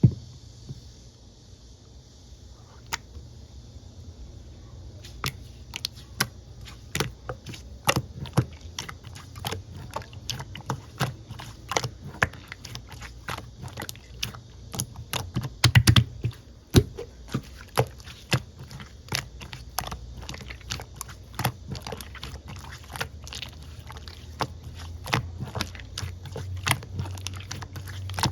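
Blue glitter slime being squeezed and worked by hand, giving irregular sharp clicks and pops. They come sparsely at first, then several a second from about five seconds in.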